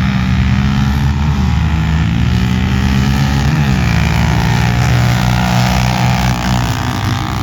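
Engine running loudly with a steady, slightly uneven pitch that dips and comes back up once about halfway through.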